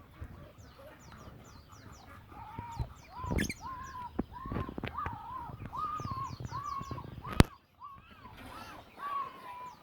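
Birds calling: a run of short, arched calls repeated about twice a second, with quick, high, falling chirps in rapid series above them. A single sharp click sounds about seven and a half seconds in.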